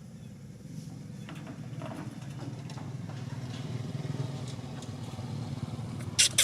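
Motorbike engine running, its low hum growing steadily louder as it approaches, with a sharp high-pitched burst right at the end.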